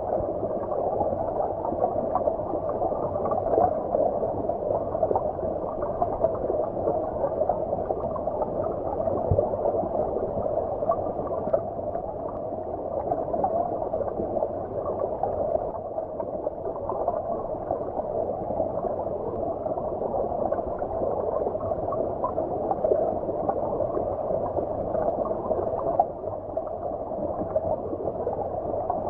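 Flowing water of a shallow stream heard as if underwater: a steady, muffled gurgling and bubbling with the high end cut away.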